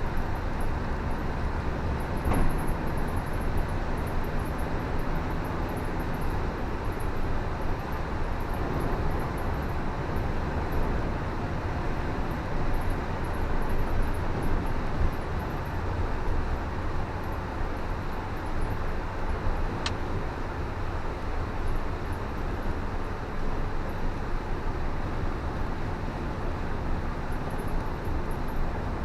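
Car driving on a wet road: steady, deep road and tyre noise. A faint click comes about two seconds in and a brief tick about twenty seconds in.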